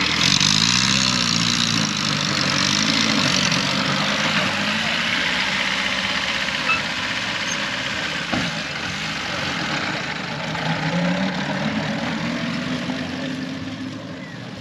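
A vehicle engine idling, its pitch rising and falling a few times in the first few seconds and again about eleven seconds in.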